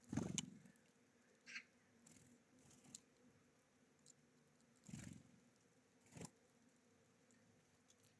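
Small birds at a feeder: a few scattered knocks and taps as they land, hop and peck at seed, the loudest right at the start, with others about 1.5, 5 and 6 seconds in.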